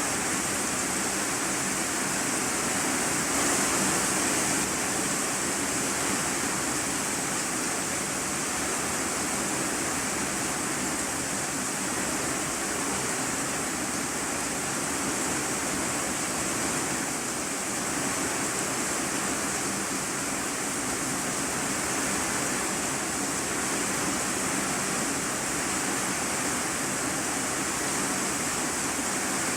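Heavy rain drumming steadily on a corrugated iron sheet roof, heard from the room beneath it as a dense, even hiss with no breaks.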